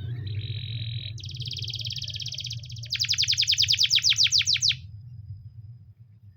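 Canary singing one song phrase: a short buzzy held note, then a rapid trill, then a louder run of quick downward-sweeping notes, about nine a second, before it stops about five seconds in. A low steady hum runs underneath.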